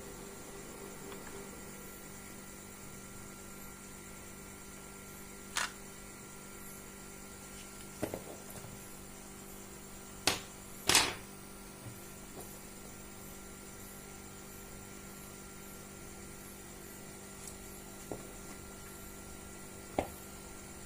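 A steady electrical hum with a few sharp clicks and knocks scattered through it, the loudest two close together a little past halfway, typical of tools and small parts being handled on a repair bench.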